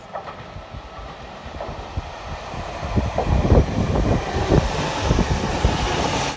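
A train running, a rumbling noise with irregular knocks that grows louder over the first few seconds, then cuts off abruptly.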